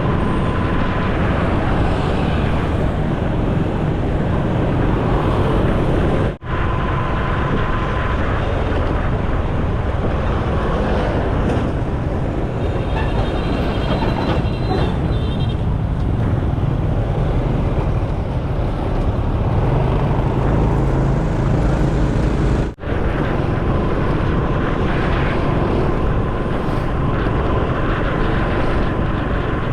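Motorcycle riding in road traffic: steady engine, tyre and wind noise heavy in the low end. The sound drops out briefly twice, about six seconds in and again about 23 seconds in, and a faint high tone sounds for a few seconds in the middle.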